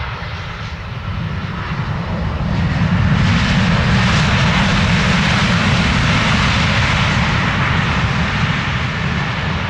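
Aircraft engine noise from a plane passing close by, a heavy rumble that swells over the first three seconds and then holds loud.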